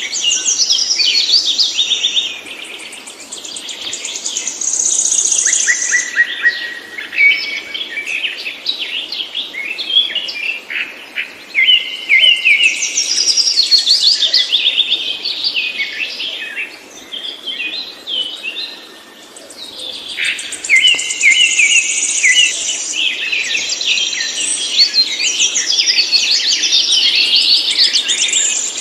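Songbird singing a long, varied song of fast whistled notes and trills, with brief pauses.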